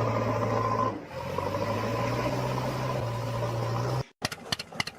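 Steady motor drone with a low buzzing hum, cut off sharply about four seconds in and followed by a rapid rattling ticking.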